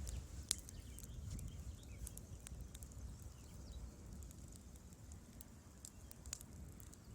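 Wood fire in a fireplace crackling: scattered sharp pops and snaps over a soft low rumble of the flames, with one louder pop about half a second in.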